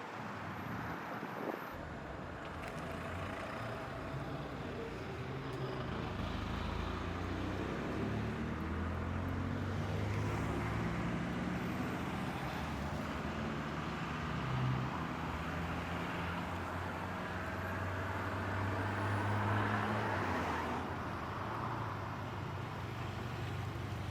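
Road traffic: vehicle engines running and cars passing, with a steady low engine hum that swells through the middle and eases near the end.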